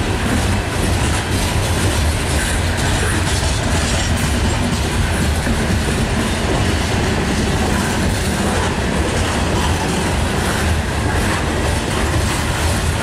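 Steel wheels of a long string of coal cars rolling past on the rails: a steady rumble with irregular clickety-clack as the wheels cross rail joints.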